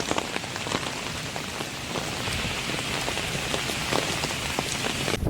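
Steady rain falling, with many drops tapping on a surface. It cuts off suddenly at the end.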